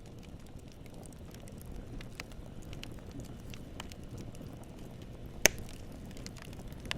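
Campfire burning: a steady low rush of flame with scattered sharp crackles of wood, and one loud pop about five and a half seconds in.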